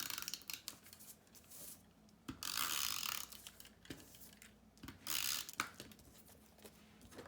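Snail tape runner rolling double-sided adhesive onto card stock: two short rasping, ratcheting runs, one about two seconds in and a shorter one about five seconds in, with light clicks of paper being handled between them.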